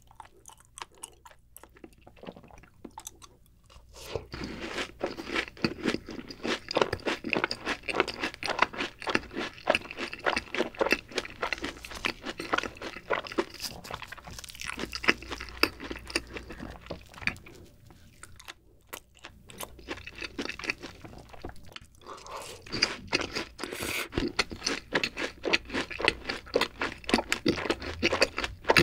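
Close-miked crunching and chewing of fried cheese balls dipped in a creamy sauce, in two long runs of crisp bites, with quieter pauses near the start and about two-thirds of the way through.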